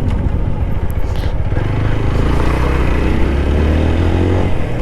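Motorcycle engine and road noise while riding. The engine note climbs steadily from about halfway through as the bike gathers speed.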